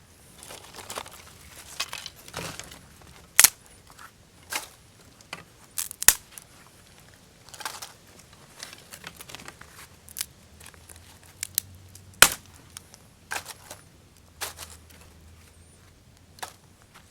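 Dry wood snapping and crackling: irregular sharp cracks at uneven intervals, a few much louder than the rest.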